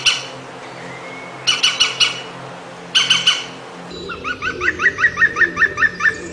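European green woodpecker calling: three short bursts of quick repeated notes, then from about four seconds in a longer series of about ten quick notes, its yaffle call.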